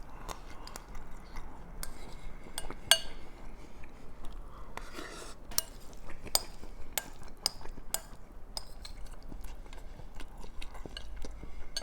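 A spoon clinking and scraping against a bowl in many irregular sharp clicks, with crunchy chewing of picadillo topped with Fritos.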